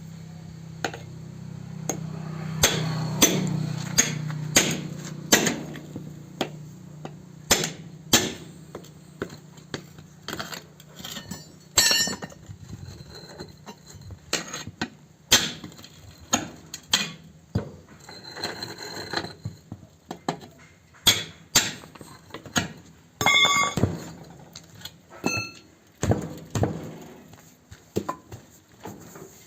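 Hammer blows on a tractor front tyre, irregular sharp strikes about once a second, some with a metallic clink. A low steady hum underlies the first several seconds and fades out.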